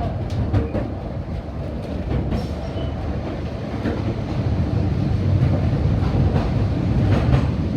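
Narrow-gauge passenger train heard from aboard a carriage: a steady rumble of wheels on the track with scattered clicks from the rail joints, growing a little louder about halfway through.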